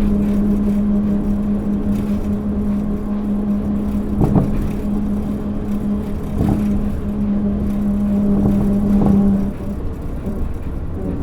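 Interior running sound of a Kobe New Transit 3000 series rubber-tyred automated guideway train at speed: a steady rumble with a steady hum that stops about nine and a half seconds in, and three short knocks along the way.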